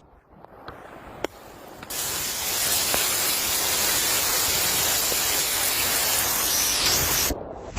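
Fast floodwater rushing: a steady, loud hiss that starts about two seconds in, after a quieter stretch with a single click, and cuts off shortly before the end.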